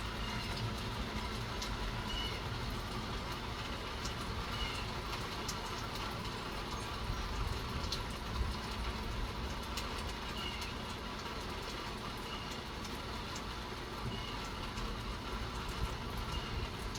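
Light rain outdoors: a steady hiss with scattered drip ticks over a low rumble, and a few faint short chirps now and then.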